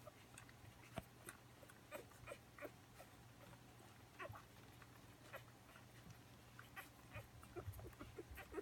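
Faint, scattered little squeaks and clicks from five-day-old puppies jostling to nurse on their mother, over a low steady hum.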